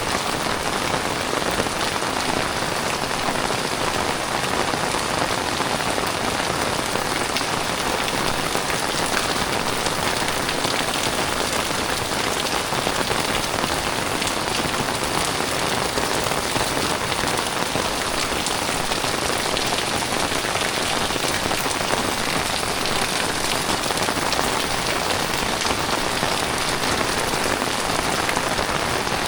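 Heavy tropical rain falling steadily on the ground and surfaces: a dense, even hiss that holds at the same strength throughout.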